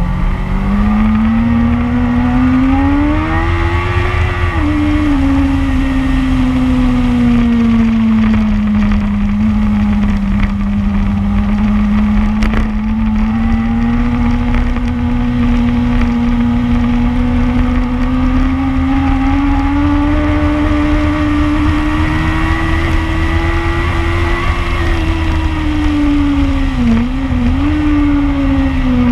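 Motorcycle engine at speed on a race track, heard from an onboard camera with wind rumble; its note climbs and falls slowly with the throttle through the corners. Near the end the note dips sharply for a moment and picks up again.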